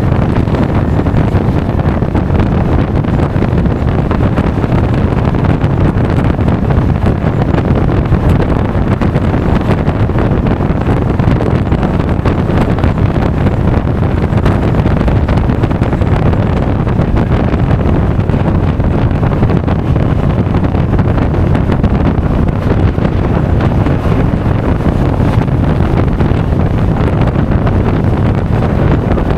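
Steady wind rush buffeting an action camera's microphone on a moving Honda Forza 350 scooter, with the scooter's running and road noise mixed beneath it. It is loud and unbroken throughout.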